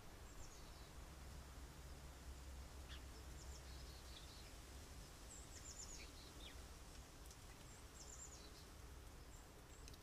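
Faint, high-pitched chirps and quick little trills from small birds, coming every second or so, over a steady low rumble.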